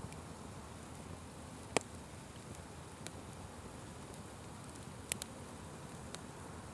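Wood fire burning, a soft steady rush of flames with scattered sharp crackles and pops: the loudest pop about two seconds in, and a quick double pop about five seconds in.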